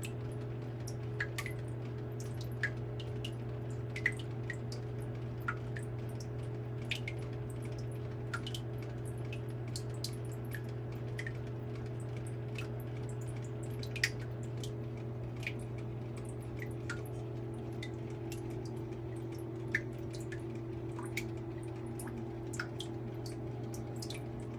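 Water dripping in a rain chamber: single drops falling irregularly, about one every second or so, a few louder than the rest, over a steady low hum.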